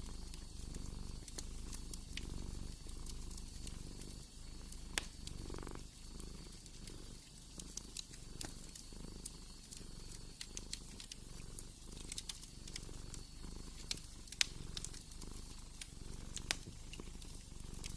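A cat purring steadily, rising and falling with each breath about every two seconds, over the scattered pops and crackles of a wood fire.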